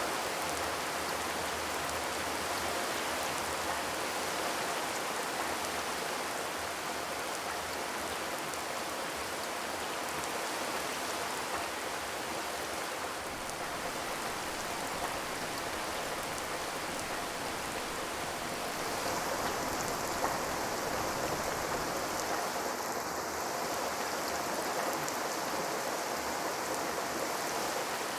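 Steady rain falling on a corrugated zinc roof, a dense even patter of drops.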